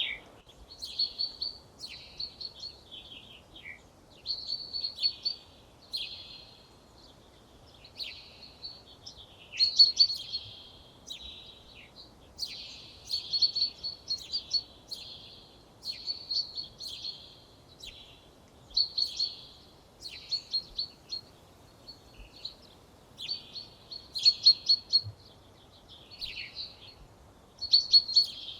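A songbird singing short, high, twittering phrases of rapid repeated notes, one after another with brief pauses between them.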